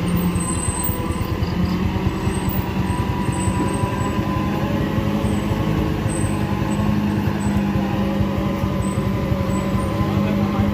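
Mitsubishi light truck's diesel engine running steadily under load, a continuous loud hum and rumble.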